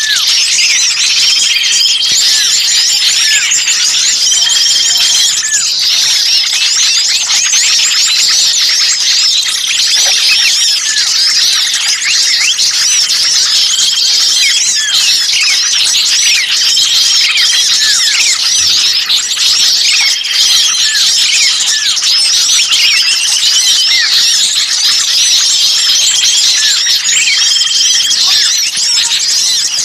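Dense chorus of many small songbirds chirping and squeaking over one another, with a short steady whistled note coming back every few seconds. It is a bird-lure recording of small birds in a noisy commotion, as around a trapped, distressed bird, used to draw other birds in.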